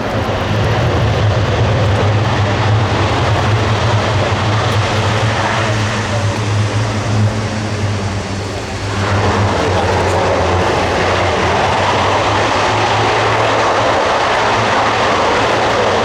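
Airbus A400M's four TP400 turboprop engines and eight-bladed propellers running loud, with a steady low propeller drone under a rushing roar. About nine seconds in, the low drone fades and the rushing roar grows stronger.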